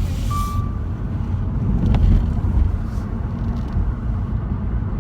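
Road noise inside a moving car: a steady low rumble of engine and tyres. A short rush of hiss and a brief high tone come in the first half-second.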